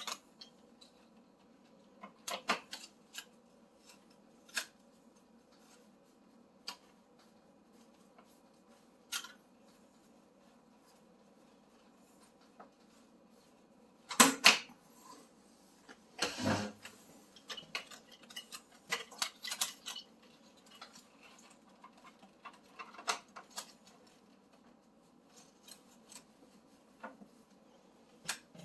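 Scattered clicks, taps and light knocks of small parts and tools being handled while working inside a stove's control panel. The loudest, a quick pair of sharp clacks, comes about halfway through, followed by a rattling knock.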